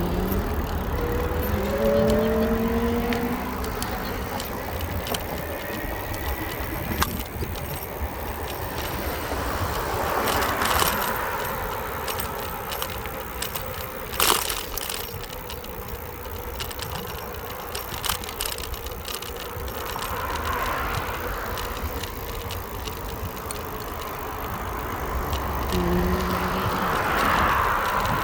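Riding noise from a bicycle on a road: a steady low rumble of wind and tyres, with passing cars swelling and fading a few times. A few short pitched tones sound near the start and again near the end, and there is a sharp click about halfway through.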